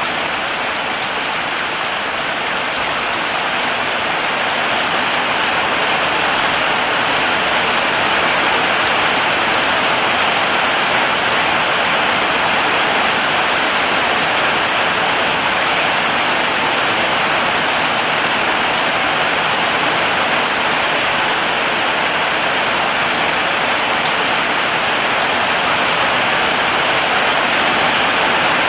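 Heavy rain falling steadily, a dense even hiss of drops on surfaces with no distinct individual impacts.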